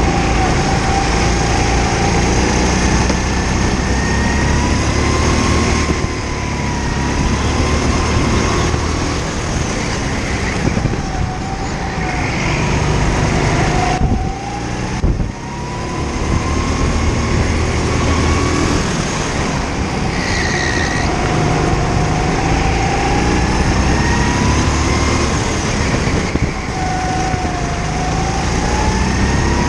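Kart engine revving up and easing off lap after lap, its pitch climbing and falling as it drives through the turns, heard from onboard the kart. About halfway through the revs drop sharply for a moment, then climb again.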